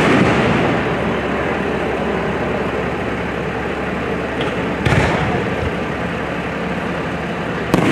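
Aerial fireworks shells bursting with loud booms, one about five seconds in and another near the end, each trailing off in a rumbling echo over a steady noisy background.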